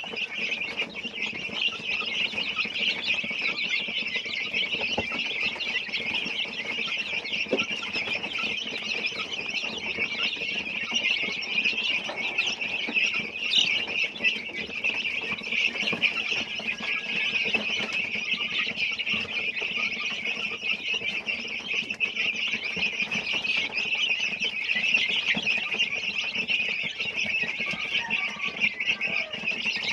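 A flock of native chickens, dominated by many chicks peeping over one another in a continuous high-pitched chatter.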